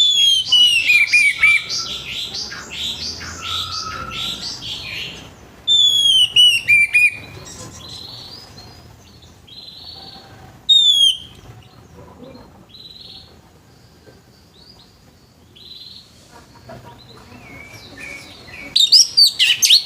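Orange-headed thrush singing: loud whistled phrases that slide down in pitch, at the start, about six seconds in and about eleven seconds in, with quieter warbling notes between and a loud, quick run of notes near the end.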